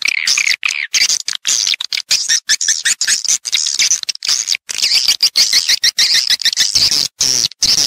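Edible-nest swiftlets twittering in a dense, rapid chatter of high chirps, a lure recording of the call and roosting sounds used to draw swiftlets into a nesting house. The chatter is broken by many abrupt short dropouts, and a faint low hum comes in near the end.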